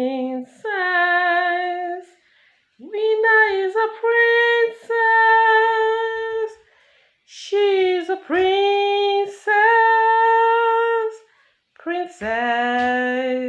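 A female voice singing a cappella in long held notes, each phrase lasting one to two and a half seconds and often sliding up into the note, with short breaths between phrases.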